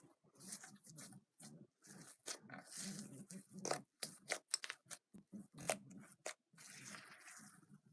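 Slime being squeezed and worked by hand, making irregular sticky crackles, clicks and pops with brief gaps between.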